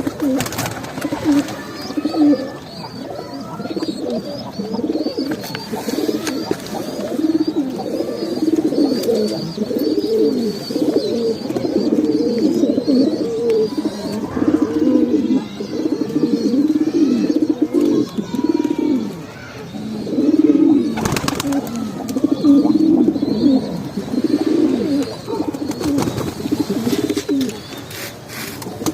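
Domestic pigeons cooing continuously, with many low coos overlapping one another. A faint high twittering runs above them for part of the time, and there is a brief click about 21 seconds in.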